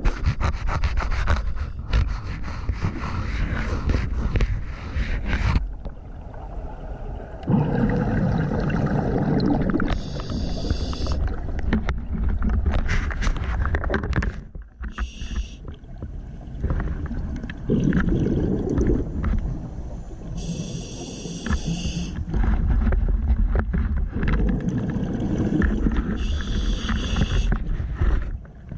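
Scuba diver breathing through a regulator underwater: several hissing inhalations through the demand valve and bubbling, rumbling exhalations, over a steady low rumble.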